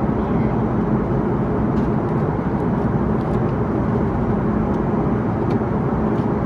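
Steady in-flight cabin noise of an Airbus A330-300: constant engine and airflow rush from its Rolls-Royce Trent 700 engines, heard from inside the cabin, with a few faint ticks.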